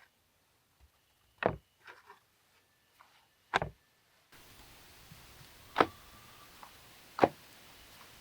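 Four sharp knocks, a couple of seconds apart, with a faint steady hiss coming in suddenly about halfway through.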